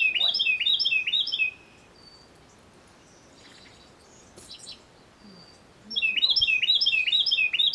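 A songbird singing two bouts of song about four seconds apart. Each bout is about two seconds of quick, repeated falling notes, about three a second, with a few fainter chirps in the lull between.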